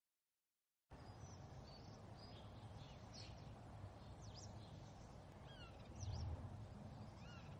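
Faint birds chirping, many short high chirps and downward-sliding calls, over a low steady rumble of background noise. The sound starts abruptly about a second in, after digital silence.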